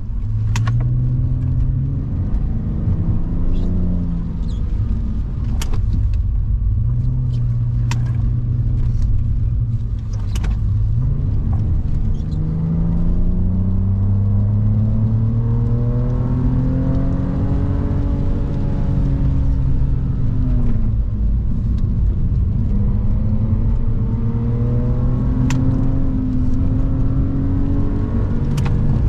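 BMW E46 330i's straight-six heard from inside the cabin, accelerating hard: the revs climb, ease off briefly and climb again toward about 5,700 rpm. Steady road and tyre rumble lies under it, with a few sharp clicks.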